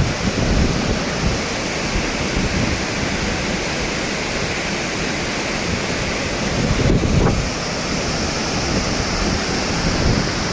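Thomson's Falls, a 74-metre waterfall, pouring down with a loud, steady rush of falling water. Wind buffets the microphone briefly about half a second in and again around seven seconds in.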